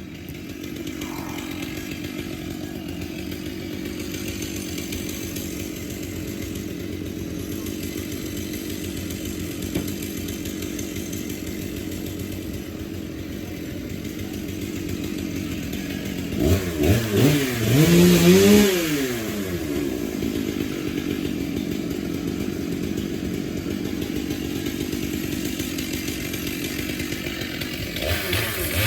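Chainsaw engine running steadily, then revved up and down several times, loudest about two-thirds of the way in, with another brief rev near the end.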